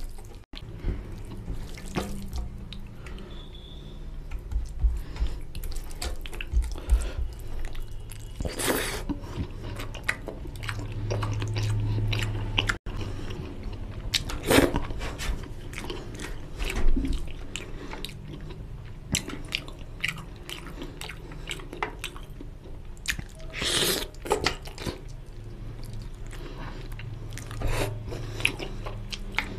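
Close-up eating sounds of a man eating rice and mutton curry by hand: chewing and mouth noises, with fingers mixing rice through gravy on a steel plate. There are many small clicks throughout and a few louder bursts of mouth noise, about a third of the way in, near the middle, and again later on.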